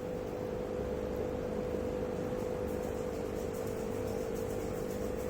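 Aquarium equipment, such as a filter or air pump, humming steadily with a held mid-pitched tone over a low rumble.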